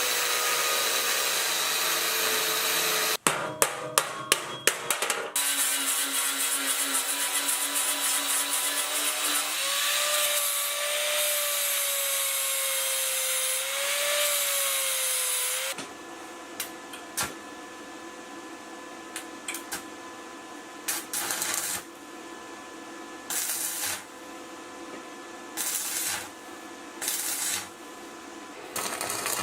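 Workshop tool work on metal: a power tool running with a wavering pitch, a quick run of sharp taps a few seconds in, then after about sixteen seconds only short, separate bursts of tool noise.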